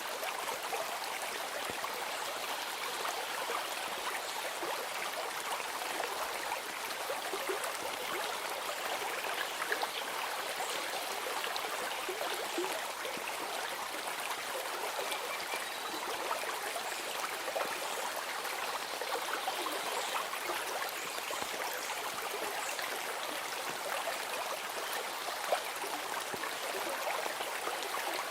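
Flowing stream: a steady babble of running water, with a few small ticks now and then.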